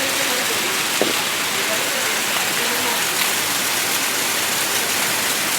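Heavy rain falling steadily as an even hiss, with a single sharp tap about a second in.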